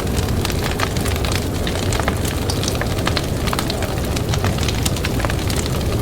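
Wood campfire crackling, with many sharp pops and snaps, several a second, over a steady low rumble.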